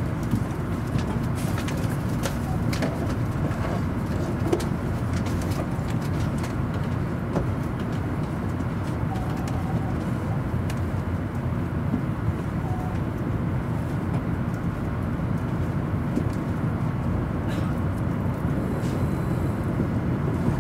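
700 series Shinkansen heard from inside the carriage as it pulls away from the platform and picks up speed: a steady low rumble with occasional light clicks.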